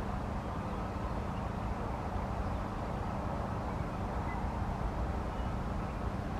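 Airbus A300B4 jet engines running steadily: a constant low rumble with a steady hum.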